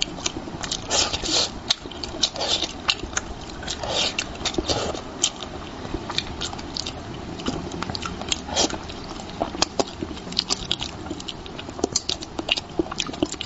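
A person eating spicy braised fish close to the microphone: chewing and mouth smacks, heard as many short irregular clicks.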